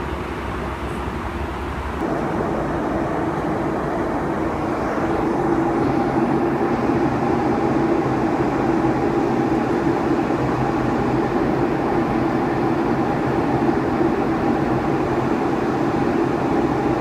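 Cabin noise inside a Boeing 757: a steady mechanical hum and rush. About two seconds in the noise steps up, with a deeper hum dropping out and a louder, steady droning hum taking its place.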